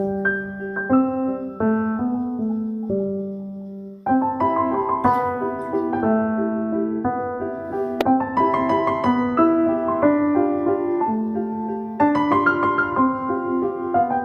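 Background piano music: a gentle melody over sustained chords, with a short pause about four seconds in before the phrase resumes.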